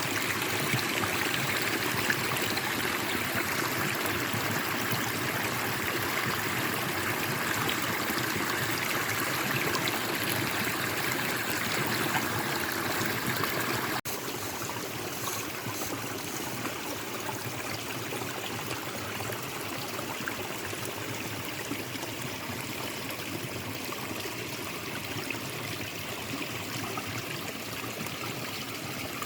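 Forest stream flowing over stones, a steady babble of running water. It drops suddenly to a slightly quieter level about halfway through.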